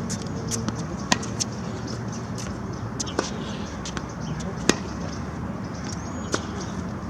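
Tennis balls struck by rackets and bouncing on the court during a rally: sharp pops roughly every one and a half seconds, the loudest about a second in and near the middle, over a steady hiss.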